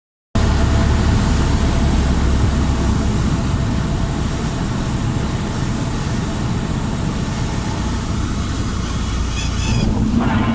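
Cessna 152 light aircraft's four-cylinder Lycoming O-235 engine running steadily on the landing approach. There is a brief, high, pulsed sound near the end, after which the sound grows brighter and noisier.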